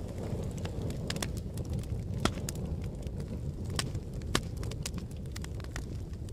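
Fire crackling: a steady low rumble of burning with frequent sharp pops and snaps, a few louder pops about two, four and four and a half seconds in.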